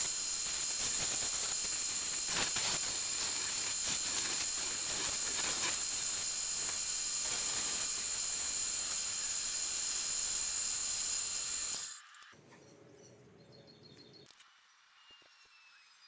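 Steady loud hissing with a high, steady whine in it, cutting off suddenly about twelve seconds in.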